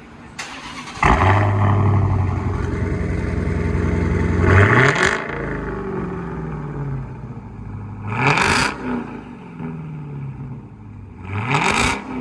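Supercharged 6.2-litre Hemi V8 of a Dodge Challenger, with its two mid mufflers deleted and only the rear mufflers left, starting about a second in with a pretty loud flare. It settles into a high idle, then is revved three times, each rev climbing and dropping back.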